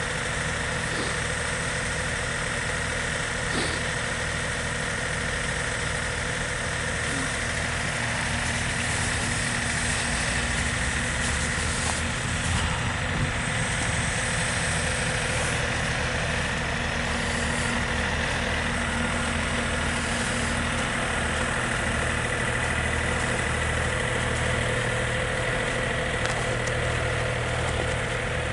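A steady mechanical hum with several constant tones over a noisy rumble, like an idling engine or machine, holding level throughout.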